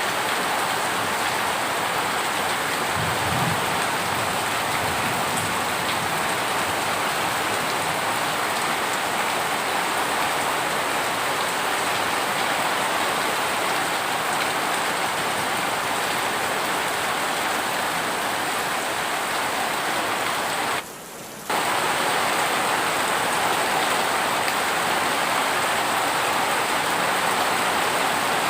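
Heavy rain falling steadily, an even hiss. About three-quarters of the way through it drops away sharply for about half a second, then comes straight back.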